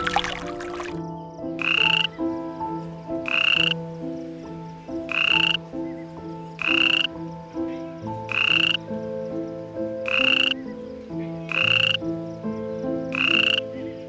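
An animal call repeated eight times, about every one and a half to two seconds; each is a short, noisy note rising in pitch, heard over soft steady musical tones.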